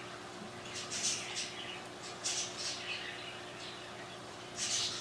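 Clusters of short high-pitched bird chirps, about a second in, near the middle and again near the end, over a steady low hum from aquarium equipment.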